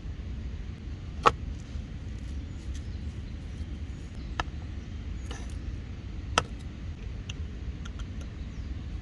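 Wood campfire crackling: a few sharp pops, the loudest about a second in, another near the middle and one past six seconds, with fainter ticks between, over a steady low rumble.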